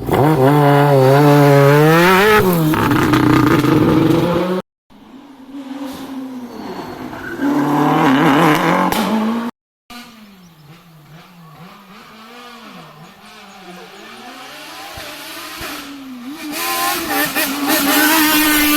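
Rally cars at speed, their engines revving hard with rapid rises and drops in pitch through gear changes as they pass, in three clips joined by two abrupt silent cuts. In the last clip a car starts faint and grows loud as it approaches.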